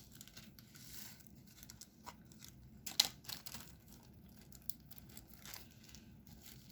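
Quiet handling sounds of diamond painting: scattered small clicks and a faint plastic crinkle as resin drills are picked up and pressed onto the sticky canvas, with one sharper click about three seconds in.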